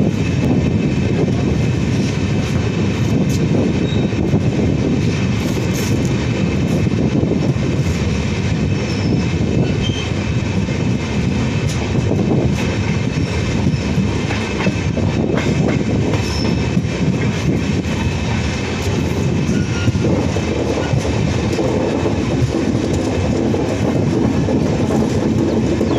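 Indian Railways passenger train running through a station, heard from beside the coach: a steady rumble of wheels on the rails with scattered faint clicks.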